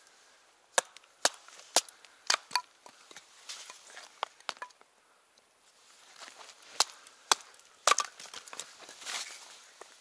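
Wood being chopped: sharp, separate strikes about half a second apart, one group of about five in the first few seconds and another of three a little before the end.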